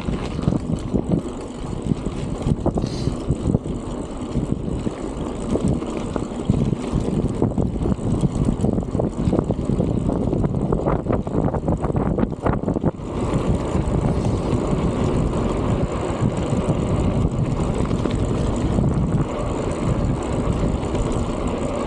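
Strong wind buffeting the microphone on a moving bicycle, a dense low rumble, with a run of short knocks and rattles in the middle.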